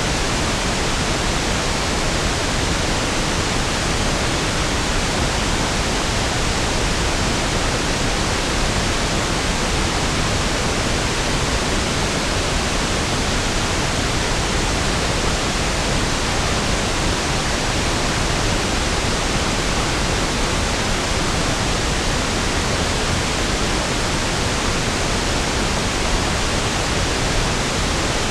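Steady, unchanging pink noise: a smooth, even hiss with the same energy in every octave, so it sounds deeper than white noise.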